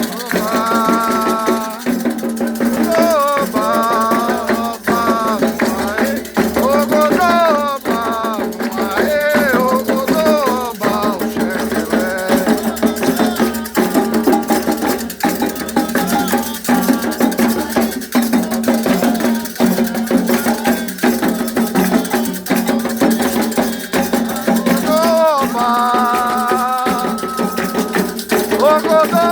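Candomblé ritual song for Xangô: voices singing a chant over shaken rattles and steady percussion strokes.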